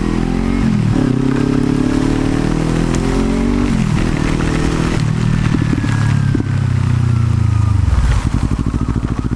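Kawasaki Ninja 300 motorcycle engine under way, its pitch climbing as it accelerates and then dropping sharply at a gear change about four seconds in. It then runs steadier at a lower pitch and eases off near the end.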